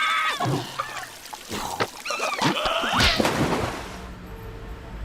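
Squeaky, wordless cartoon-creature cries with sliding pitch and a few sharp comic hits, over a steady hiss of falling rain.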